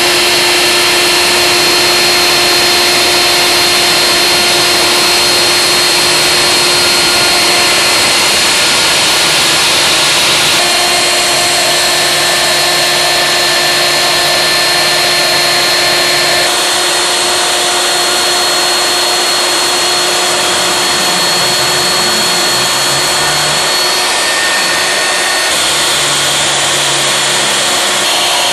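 CNC router spindle milling through 43 mm thick acrylic: a loud, continuous cutting hiss with a steady high whine. The tone shifts a little about ten and again about sixteen seconds in.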